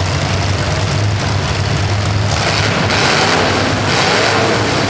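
Motor vehicle engines running loudly at idle, with louder rushing surges about two and a half and four seconds in.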